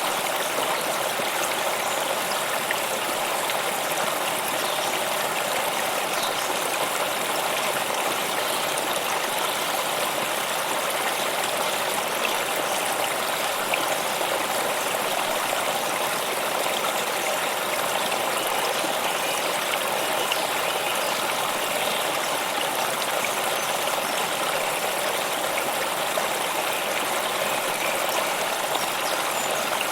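Flowing stream water running steadily, with an even rushing and trickling that does not change.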